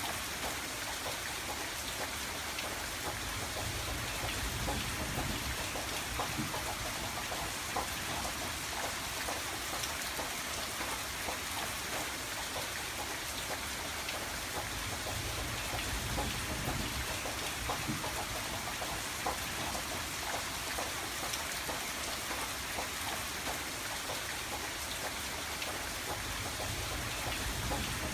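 Steady rain pattering on window glass, a dense patter of individual drop taps, with a low rumble underneath that swells and fades a few times.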